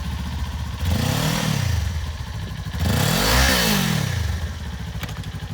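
2019 Kawasaki Ninja 400's parallel-twin engine through an Akrapovic exhaust, idling and blipped twice, each rev rising and dropping back to idle; the second rev is higher and louder.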